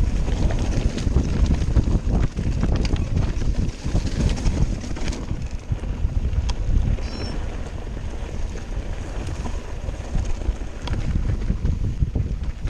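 Wind buffeting the microphone over the rumble and rattle of a mountain bike riding down a rough trail, with scattered sharp clicks and knocks throughout.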